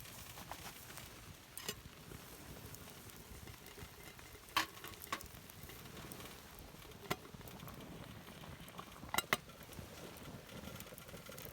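Campfire crackling: a soft steady hiss broken by a few sharp pops, two of them close together about nine seconds in.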